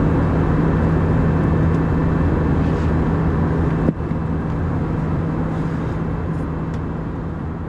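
Airbus A319 cabin noise in the climb: a steady drone of the engines and rushing air with a low hum through it. There is one sharp click about four seconds in, and the sound gradually fades near the end.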